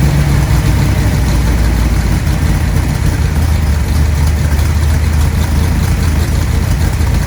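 Superformance Mark III Cobra's V8 idling steadily less than a minute after a cold start, its pitch dropping slightly in the first couple of seconds. The engine is still cold, which the owner says makes it idle a little rough until it warms up.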